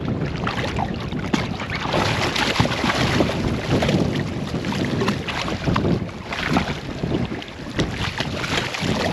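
Strong gusty wind buffeting the microphone, with scattered knocks and rustles from handling.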